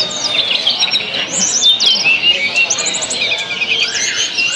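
Tledekan flycatchers singing at once, in rapid overlapping high chirps, fast trills and quick falling whistles.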